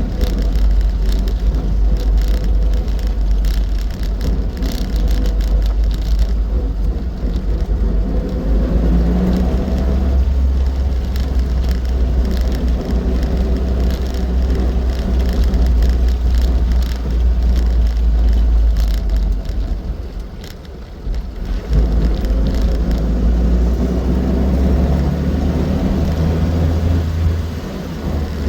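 Austin 7 being driven: its small four-cylinder side-valve engine running steadily with a heavy low rumble and rushing road noise, easing off briefly about three-quarters of the way through.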